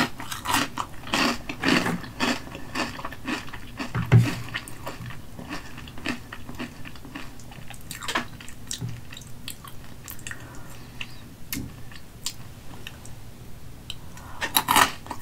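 Close-miked crunching and chewing of Hot Cheetos, some dipped in cheese sauce: many crisp crunches one after another, with small wet mouth sounds.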